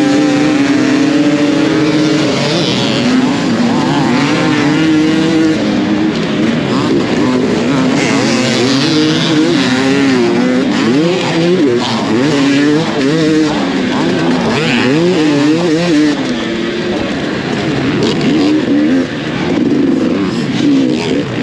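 Several dirt bike engines revving together, their pitches rising and falling unevenly.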